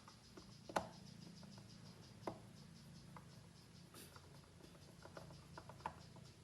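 Scattered light clicks and taps of small parts being handled, the sharpest one about a second in, over a faint steady low hum.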